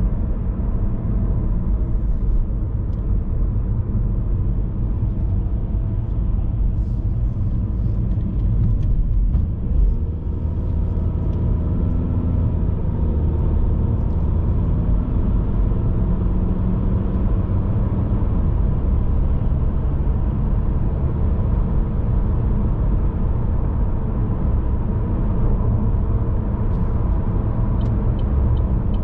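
Car on the move: a steady rumble of road and engine noise, heaviest in the low end. Near the end a short run of faint, evenly spaced ticks sits over it.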